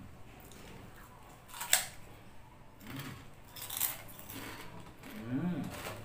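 Crisp fried pork chicharon bitten with one sharp crunch a little under two seconds in, then chewed with more crunching. A couple of short hummed "mmm" sounds come from the eater.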